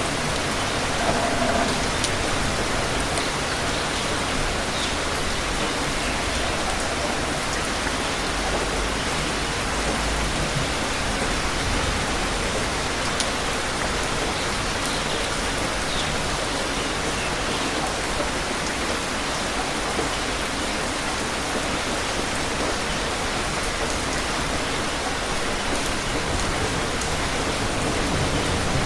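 Steady heavy rain falling on surfaces, an even dense hiss with scattered drop ticks.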